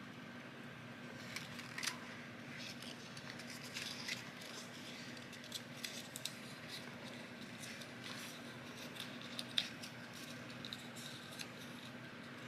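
Paper being handled and folded by hand: scattered small crisp crackles and clicks as a folded paper strip is creased and bent, over a faint steady hum.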